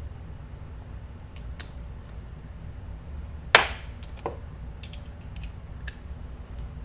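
Small clicks and taps of a vape atomizer and e-liquid bottle being handled, with one sharp knock about three and a half seconds in and a lighter one just after, over a low steady hum.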